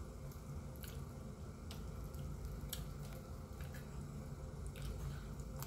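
Close-up eating sounds of fried chicken being eaten by hand: wet chewing and squishy mouth noises, with a few sharp clicks roughly a second apart.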